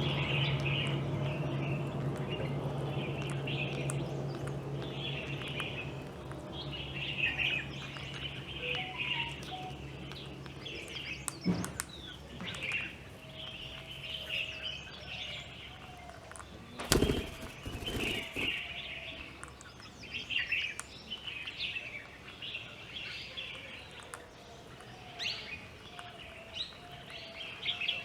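Birds chirping and calling over and over, with a steady low hum in the first part that fades out about eleven seconds in. A few sudden thumps come partway through, the loudest about seventeen seconds in.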